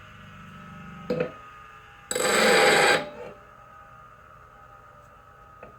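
Bench grinder running with a steady whine while a lathe gouge is sharpened on the wheel: a brief touch of the steel to the wheel about a second in, then a grinding pass of about a second, each contact a burst of grinding noise.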